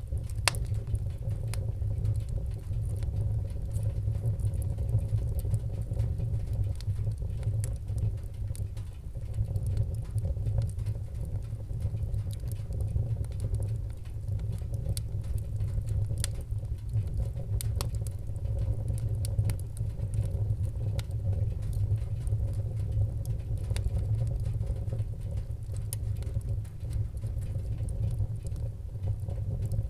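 Wood fire burning in a fireplace: a steady low rumble with frequent small crackles and pops scattered through it.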